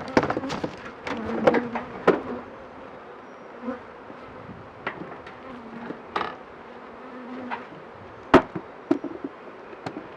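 Honeybees buzzing around an open hive, their wavering hum rising and falling as they fly past, with scattered sharp wooden knocks and clicks from the hive's cover being handled and set in place; the loudest knock comes near the end.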